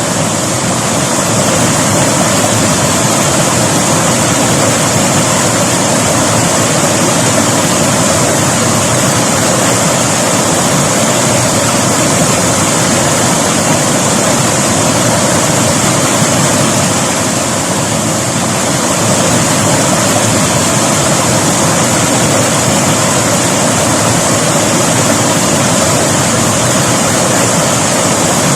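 River water rushing and splashing in a loud, steady stream.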